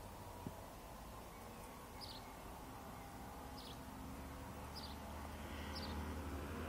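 A small bird chirping faintly in the background, one short high call repeated about once a second, over a low outdoor rumble.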